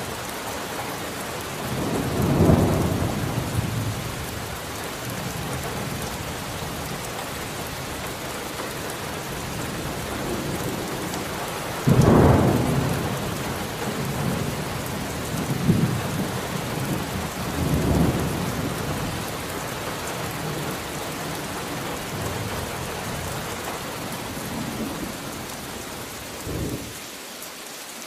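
Steady rain falling, with several rolls of thunder rumbling over it; the loudest clap breaks sharply near the middle, and the others swell and fade.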